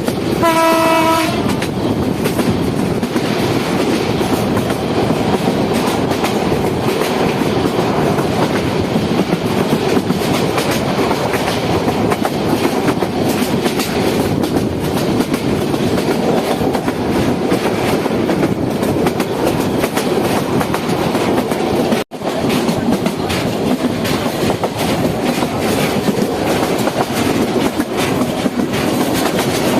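Moving passenger train: a steady rumble with the clickety-clack of wheels over rail joints. A train horn sounds briefly about a second in, and the sound drops out for an instant about three-quarters of the way through.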